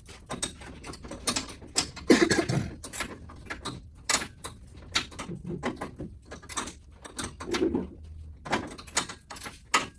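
Irregular clicks, clinks and knocks of hand tools and metal or plastic parts being handled during work on a truck's front end, with a few duller thumps.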